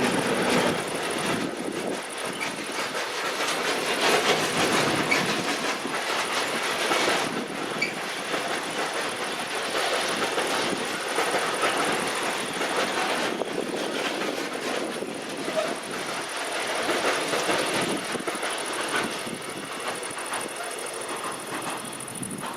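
A train rolling past at close range, a steady heavy rumble of wheels on rail with a rapid clatter over the joints, cutting off suddenly at the end.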